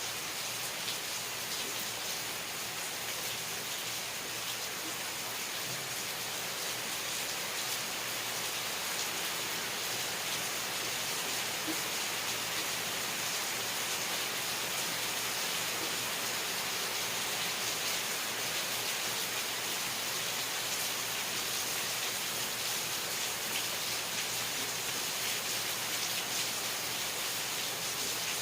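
Steady rain falling, an even hiss of many small drops with no let-up.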